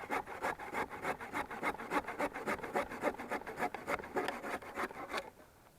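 Hand saw cutting firewood, with quick, even back-and-forth strokes, about four or five a second, that stop about five seconds in.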